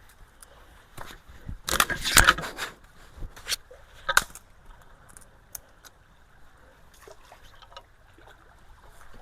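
Branches and woody debris cracking and knocking as they are pulled out of a clogged culvert, with a dense clatter about two seconds in, a few single sharp snaps after it, and some water sloshing.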